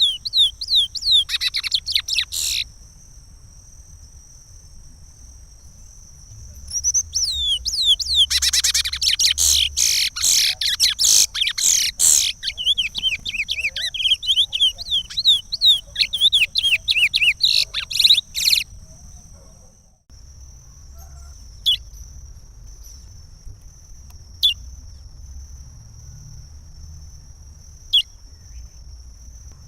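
Curió (chestnut-bellied seed finch) singing the Pará regional song: a short phrase, a pause, then a long rapid warbling phrase of about twelve seconds. After that come a few single sharp call notes a few seconds apart.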